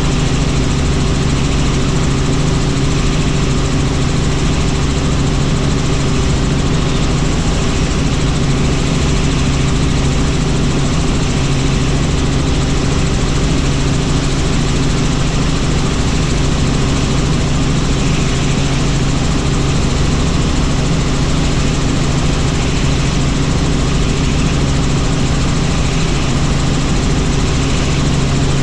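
Helicopter in flight: steady, loud rotor and turbine drone with a constant low hum, unchanging throughout.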